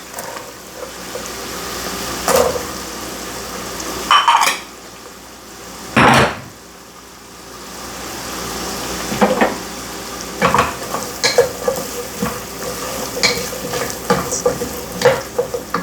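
Diced onion, celery and carrot sizzling in butter in a pot over medium-high heat while a utensil stirs them, knocking and scraping against the pot. There are a few loud knocks in the first half, the loudest about six seconds in, then a run of quick clinks toward the end.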